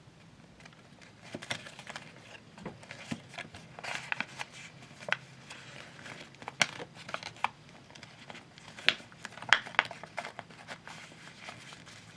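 Sheet of paper being handled and folded: irregular crinkling and crackling, with sharp crackles as folds are pressed, most of them after about a second in.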